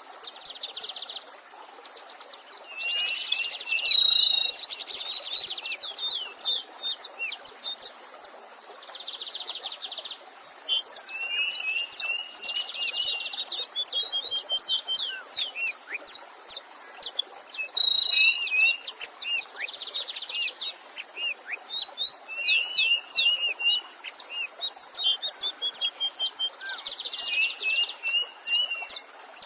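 Several songbirds singing and calling at once: rapid sharp chirps, repeated downward-sweeping notes and short buzzy trills that come back every few seconds, over a faint steady rush of a stream.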